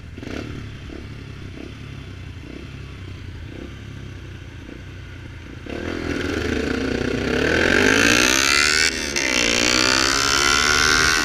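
Motorcycle with an open sport exhaust idling quietly, then accelerating hard about six seconds in. The engine note climbs steadily, dips briefly and climbs again.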